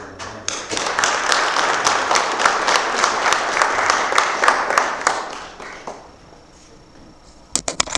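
Congregation applauding, building within the first second and dying away about six seconds in. A few sharp knocks follow near the end.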